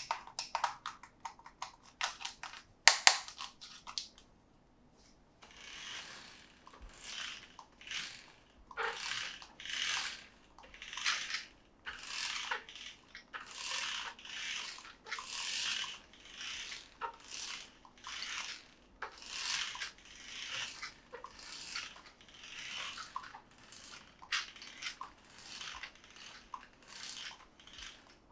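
Toy packaging being handled: a run of sharp clicks and taps, then from about five seconds in a steady series of rustling, crinkling strokes, roughly one a second.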